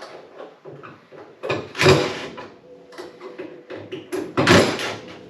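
Knocking and clattering of metal hinge hardware and screws being handled against a refrigerator cabinet during a door-swing reversal. There are two louder knocks, about two seconds in and near the end.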